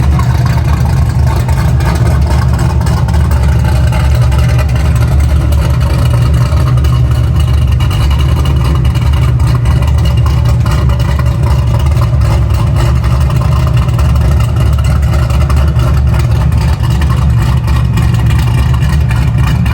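Cammed 427 LSX V8 running through full 3-inch straight pipes, heard from inside the car while driving: a loud, steady, deep exhaust drone.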